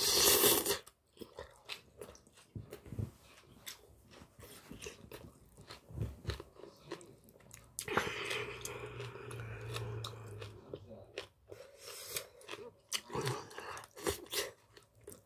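Close-up eating sounds: chewing and biting on a mouthful of spicy webfoot octopus with bean sprouts and rice, with many short clicks and a metal spoon working in the plate. A louder noisy burst comes right at the start, and a longer one about eight seconds in.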